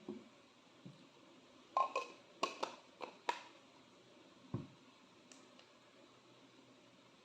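A quick run of about six light clicks and knocks, some with a short ring, from something being handled, then a single soft low thump a little later.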